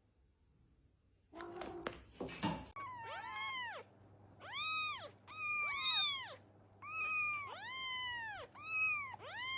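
Cat meowing repeatedly: about eight high-pitched meows, each rising then falling, some overlapping as if from more than one cat. They start about three seconds in, after a brief rustle.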